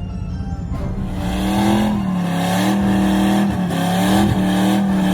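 Car engine revved hard and held at steady high revs, the pitch dropping briefly and climbing back several times.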